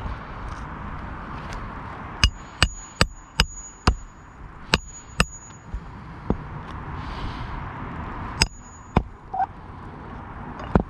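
Hammer driving nails back into roof shingles: a quick run of about seven sharp strikes, then a few more spaced apart, several with a short metallic ring.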